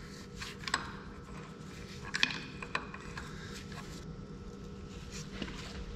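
A few light metallic clicks and knocks from metal parts being handled, over a faint steady hum.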